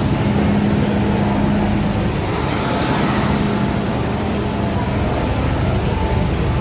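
MTR M-train (first-generation Metro Cammell CM Stock) running along the line: steady rumble of wheels and running gear with a low hum that fades about two seconds in.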